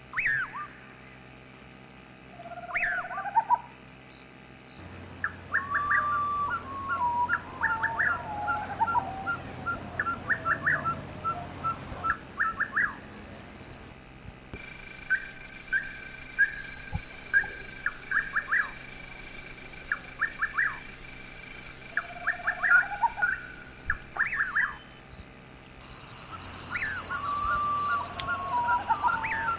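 Birds calling in a series of quick falling chirps and trills, with a steady high-pitched drone joining in the second half.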